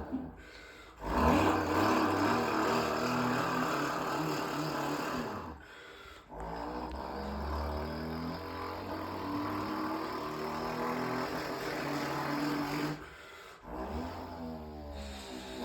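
Kanuni Breton motorcycle engine running through its exhaust and being revved, dropping back three times and rising in pitch again after each drop.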